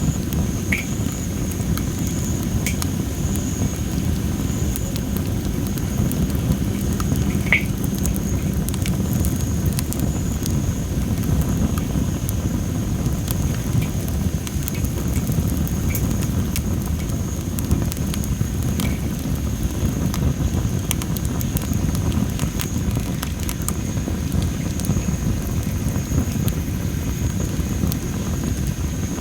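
Campfire of well-dried masaki (Japanese spindle tree) logs crackling, with frequent small sharp pops over a steady low rumble. A thin high tone holds steady throughout.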